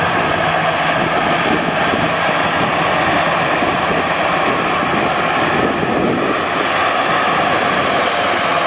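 Maxxi Bimo rice combine harvester running steadily at close range, its engine and machinery making a continuous loud mechanical drone.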